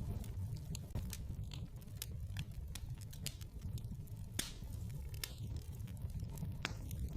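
Wood fire crackling in a fireplace: irregular sharp pops and snaps, a few a second, over a low steady rumble of the flames.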